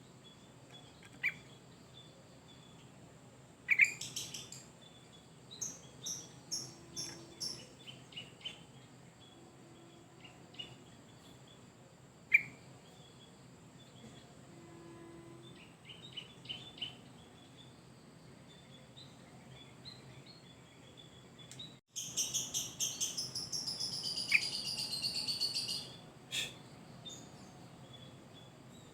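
Yellow-vented bulbul singing in short, scattered phrases and chirps, with a long, loud run of rapid falling notes about 22 seconds in.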